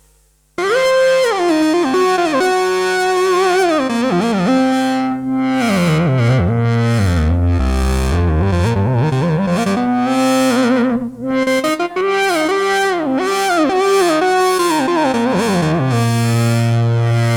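IK Multimedia Uno Synth PRO analog synthesizer playing a factory preset: starting about half a second in, a melodic line whose notes glide into one another, with a deep sweep down and back up in the middle, settling into a held low note near the end.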